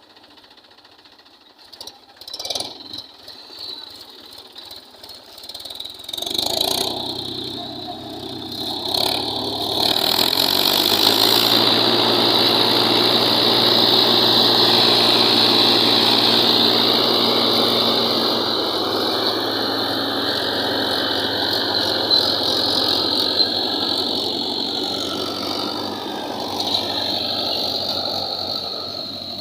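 Mahindra tractor's diesel engine running, coming in about six seconds in and building louder near ten seconds, then held steady with a high whine over it before easing off near the end.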